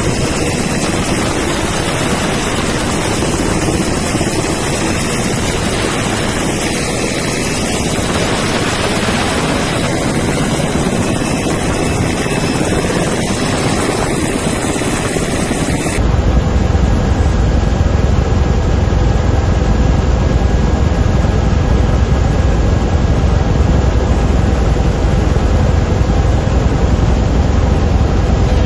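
Military helicopter running loudly, a dense steady whine and rush of turbine and rotor noise. About halfway through it cuts to a different recording dominated by a deep, steady engine rumble.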